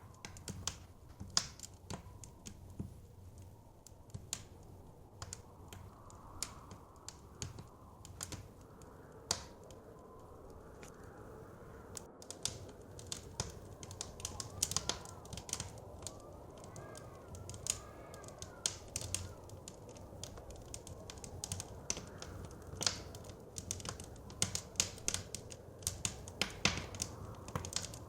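Wood fire crackling, with irregular sharp pops and snaps over the low, steady rush of blizzard wind. A faint wavering whistle of wind rises and falls about two-thirds of the way through.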